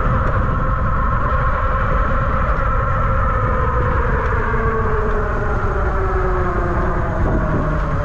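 Electric bike's hub motor whining while riding, several pitches together that slowly fall as the bike slows, over a steady low rumble of wind on the microphone.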